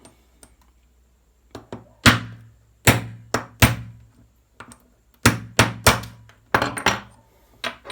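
Sharp taps driving a bearing out of a Traxxas Velineon brushless motor's end cap with a bearing tool, about eleven taps in small groups of two or three.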